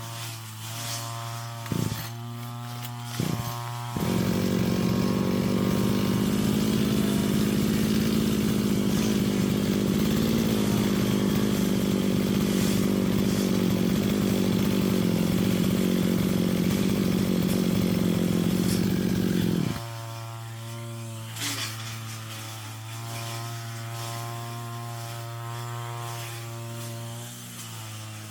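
Brush cutter engine idling, with two short knocks about two and three seconds in. It then revs up to full speed and runs loud and steady for about sixteen seconds before dropping back to idle.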